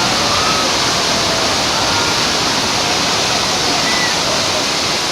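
Steady, loud rush of water from a theme-park ride's staged flood effect, with faint voices in the background.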